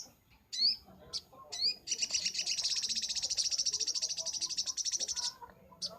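Ruby-cheeked sunbird (sogok ontong) singing: a few short, high rising chirps, then a fast, high rattling trill lasting about three and a half seconds, and one more short note near the end.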